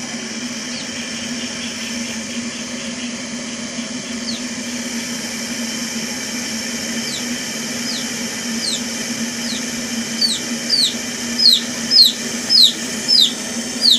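Stainless steel electric kettle heating water: a steady hiss with a constant low hum. Over it come short, high, falling chirps, sparse at first, then faster and louder near the end, about one and a half a second.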